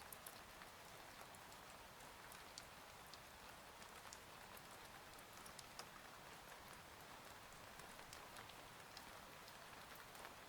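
Faint steady rain, with scattered sharp taps of single drops.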